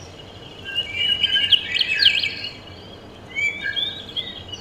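Small birds chirping, high-pitched, recorded by a bird box camera's built-in microphone. A dense run of quick chirps comes about a second in, and a shorter group follows near the end.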